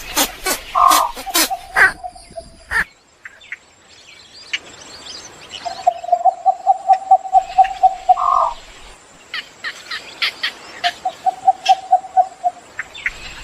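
Bird calls: sharp repeated chirps, dense at first and then scattered, and twice a rapid pulsed trill held on one pitch.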